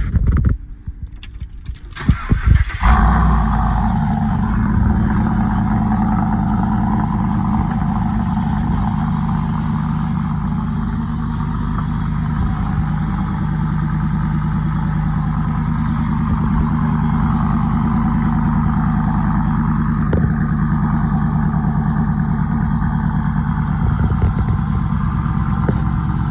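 Engine cold-started on the starter: a few cranking pulses, then it catches with a loud burst about three seconds in and settles into a steady idle through two Kooks bullet mufflers, running without a tune.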